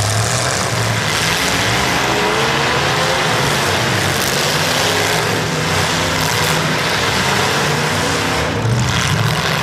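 Demolition derby cars' engines running and revving under a loud, steady wash of noise, with engine pitch rising over a few seconds in the middle.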